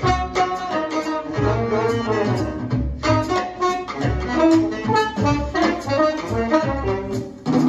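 Jazz recording: a saxophone plays a moving melodic line over a walking bass.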